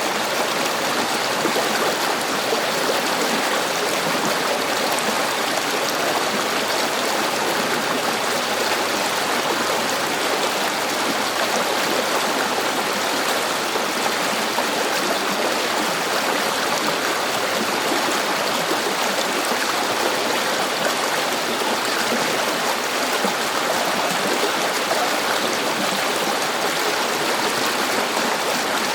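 A river's water running over stones, a steady rushing and babbling that does not change.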